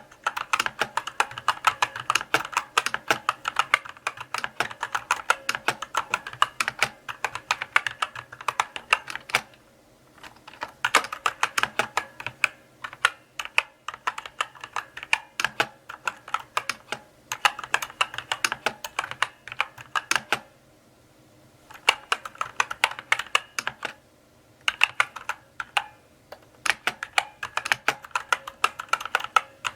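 Typing on a mechanical keyboard: fast runs of clicking keystrokes, broken by a few short pauses of about a second.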